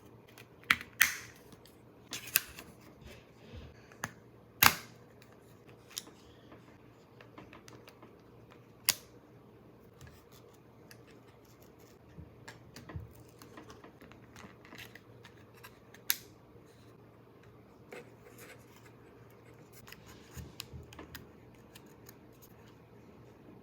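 Irregular clicks, taps and snaps of coin spinner kit parts being handled and fitted together. The loudest snap comes about five seconds in, with others at about one, two and nine seconds and near sixteen seconds, and softer handling clicks in between.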